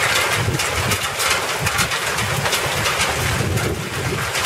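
Hail pelting down: a dense, steady patter of many small impacts over a rushing hiss, with wind buffeting the microphone as a low rumble.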